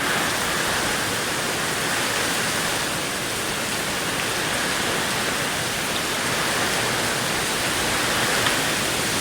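Heavy rainstorm downpour: a steady, dense hiss of rain falling hard.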